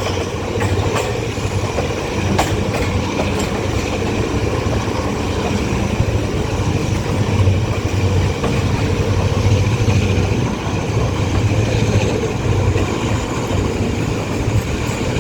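Passenger train coach running along the track: a steady rumble of wheels on rail with the clickety-clack of rail joints and a few sharp knocks, the coach bouncing on the track.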